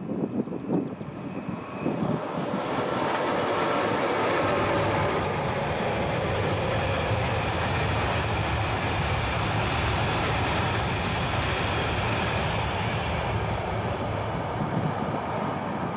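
A freight train of ore-concentrate hopper wagons hauled by an Sr1 electric locomotive rolls past, a steady loud rumble and rattle of wheels on rail that eases off after the last wagon passes, with a few sharp clicks near the end. Wind buffets the microphone in the first couple of seconds.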